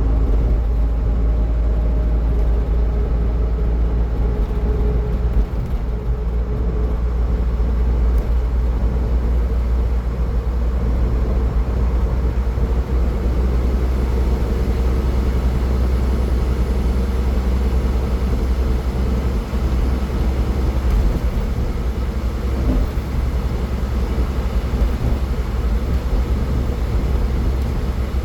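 Steady road noise of a car driving at highway speed: a deep, even rumble of tyres and engine with a hiss of wind and road above it.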